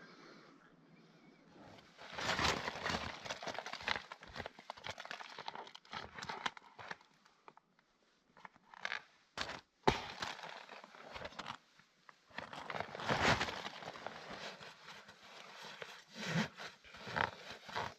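Irregular rustling, crinkling and crunching, like gear or clothing being handled, in uneven bursts, with a single sharp knock about ten seconds in.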